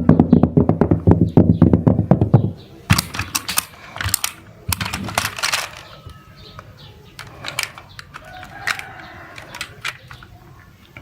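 Toy cars rattling fast as they roll down a slide for about two and a half seconds, then scattered light clicks and knocks of toys clattering together.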